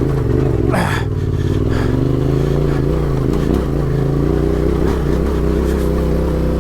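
Adventure motorcycle's engine running steadily at low revs, with a brief clatter about a second in.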